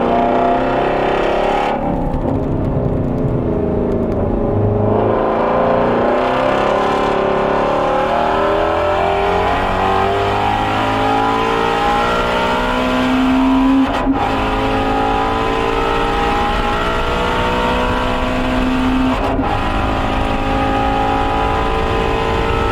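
Ford Shelby GT350R's flat-plane-crank V8 pulling hard on track, its pitch climbing steadily as it revs. It is cut briefly by quick upshifts about 14 and 19 seconds in, each followed by the pitch climbing again.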